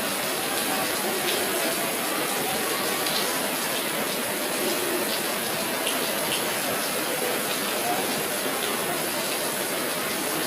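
Steady rush of flowing water, an even noise that holds at one level without breaks.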